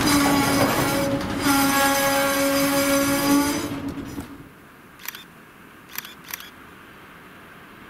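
Freight train of open-top wagons rolling past close by, with a steady pitched tone sounding over the rumble for about two seconds. The train noise fades away about four seconds in, leaving quiet broken by a few sharp clicks.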